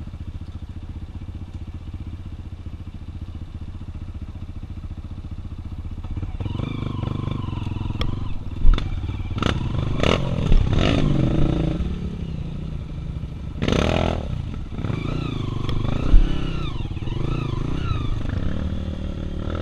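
Four-stroke trail motorcycle engines: one idling with a steady low pulse, then about six seconds in engines rev and strain unevenly, with clatter and several sharp thumps.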